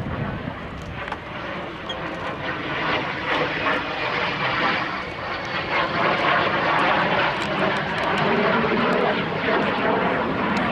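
MiG-17 fighter jet's turbojet engine roaring during a display pass, the jet noise growing louder over the first several seconds and then holding loud.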